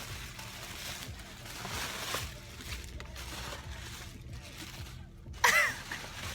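Paper or plastic gift wrapping rustling and crinkling as a gift is unpacked, with a short, loud, high voiced sound about five and a half seconds in.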